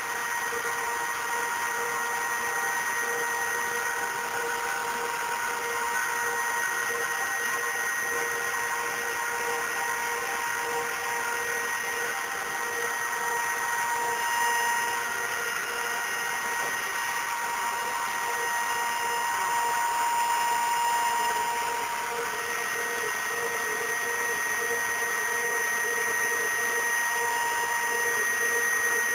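ZIO CNC R6 router running steadily: a constant machine whine made of several fixed tones over a hiss.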